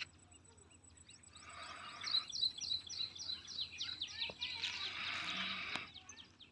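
Birds chirping outdoors, a quick run of short, repeated downward chirps, about four or five a second, starting about two seconds in. Two brief patches of rushing, hiss-like noise come and go under the chirps.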